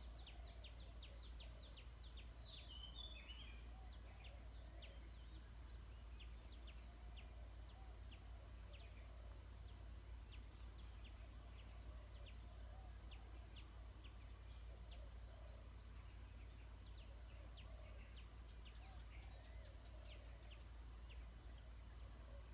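Small birds chirping with short, sharp, high notes that drop in pitch: a quick run of about ten at the start, then scattered single chirps, over a steady high insect hiss.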